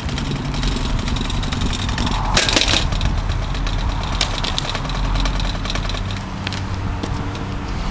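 Holmes HBF2002A box fan running with a steady motor hum and scattered clicks and rattles from its battered frame, with a brief scraping noise about two and a half seconds in.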